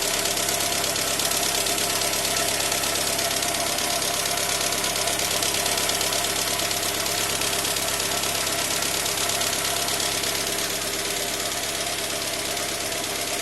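Renault 4 GTL four-cylinder petrol engine running steadily at idle after a light overhaul, dropping slightly in level about eleven seconds in.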